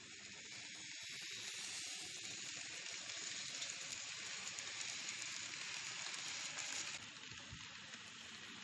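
N-gauge model train running along the track: a steady, hiss-like rolling noise of wheels on rail and the small motor. It grows louder about a second in and drops back near the end as the train moves away.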